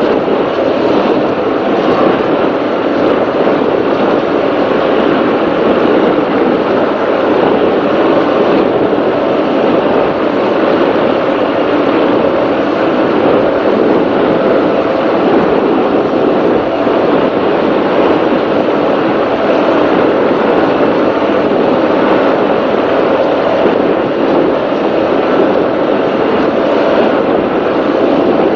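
Offshore racing powerboat's engines running loud and steady at speed, heard from on board.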